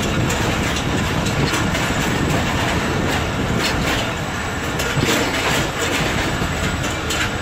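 Passenger train coach running along the track, heard from an open door: a steady rumble and rush with the wheels clacking irregularly over rail joints.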